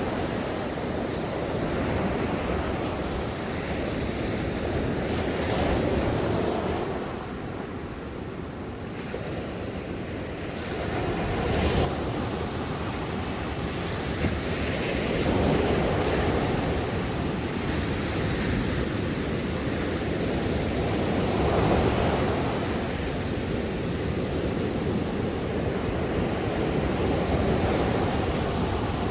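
Ocean waves breaking on a shore in a steady wash of surf, swelling and easing every few seconds.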